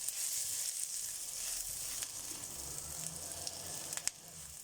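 Chopped onion and spring onions sizzling as they fry in a pan, a steady high hiss. About four seconds in there is one sharp tap, after which the sizzle is a little quieter.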